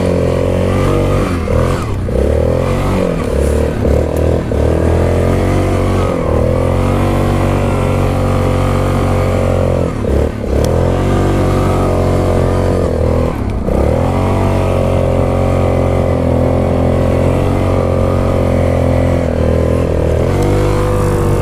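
Yamaha Grizzly 660 ATV's single-cylinder four-stroke engine running hard under throttle. The revs drop and climb back several times as the throttle is let off and opened again.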